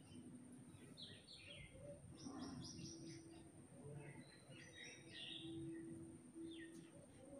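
Small birds chirping faintly in several short runs of quick high notes, the busiest run about two seconds in.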